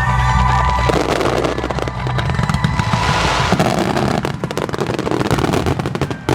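Aerial fireworks bursting in a rapid, continuous barrage of bangs, with festival music fading out early on.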